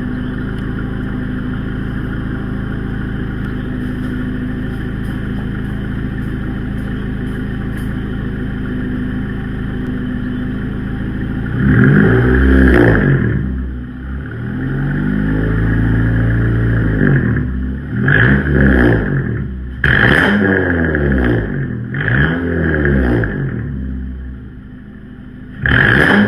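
Honda Accord 2.4-litre four-cylinder engine running through an exhaust with the muffler and resonator removed, idling steadily for about eleven seconds. It is then revved several times: a quick blip, a longer held rev, and a string of short blips, each rising and falling in pitch.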